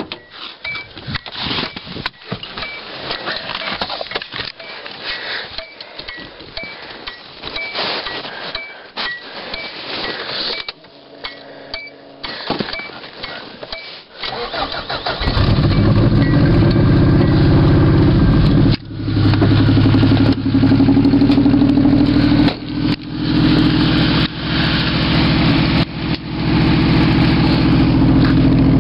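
1991 Subaru Loyale's flat-four engine starting from cold. For the first half there are rustling and clicks under a faint repeating high chime; then the engine cranks, catches and runs loud and steady, with a brief drop a few seconds after it starts.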